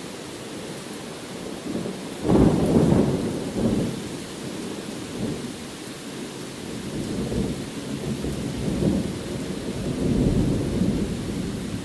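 Steady rain with rolling thunder: a loud low rumble starts suddenly about two seconds in, followed by weaker rolling swells.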